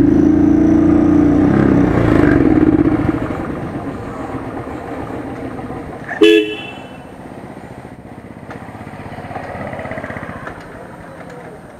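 Royal Enfield Thunderbird's single-cylinder engine running, then dying about three seconds in as the last petrol in the tank runs out. A short vehicle horn toot about six seconds in, over lower street noise.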